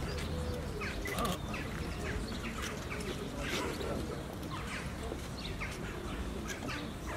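Songbirds chirping: many short, quick, falling chirps repeated throughout.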